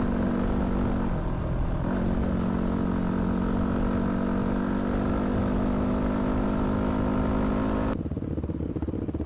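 2006 Yamaha WR250F single-cylinder four-stroke dirt bike engine running under way at a steady speed. Its pitch dips briefly about a second in, then holds steady. Near the end the sound changes abruptly to a lower, rougher engine sound.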